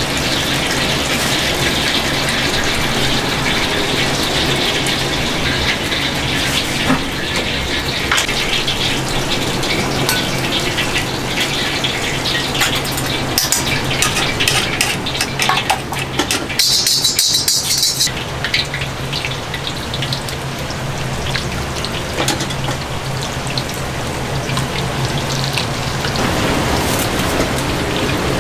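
Food frying and sizzling in oil in woks over gas burners, a steady hiss over a low hum. About halfway through comes a run of sharp metal clinks, and a loud high hiss breaks out for about a second and a half, then stops suddenly.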